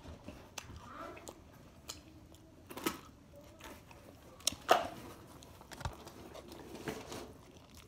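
Close-up chewing and crunching of salad with the mouth near the microphone, with sharper crunches about three and about five seconds in.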